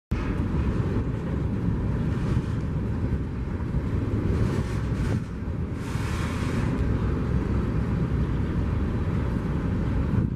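Steady heavy rumble of a passing train, with wind buffeting the microphone; the hiss brightens for a few seconds midway.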